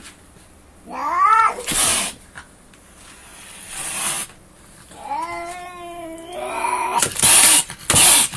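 House cat caterwauling: a short rising-and-falling yowl about a second in, and a longer drawn-out yowl about five seconds in. Short, sharp bursts of hissing noise come between and after the yowls.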